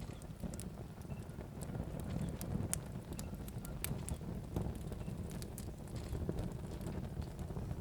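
Wood fire crackling in a fireplace: irregular sharp pops and snaps of burning logs over a low, steady rumble of the flames.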